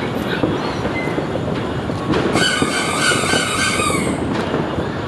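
Fireworks crackling densely with rapid pops throughout, with a shrill, high-pitched whistle from a whistling firework lasting about two seconds in the middle.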